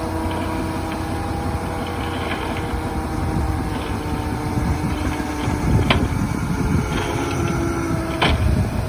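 Heavy diesel machinery, a bulldozer, with its engine running steadily. There are two sharp knocks, about six and about eight seconds in.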